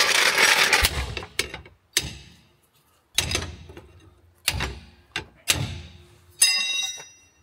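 Metal tools and suspension parts being handled in a workshop: a short rushing noise, then four separate metallic knocks, and near the end a bright metal clang that rings on briefly.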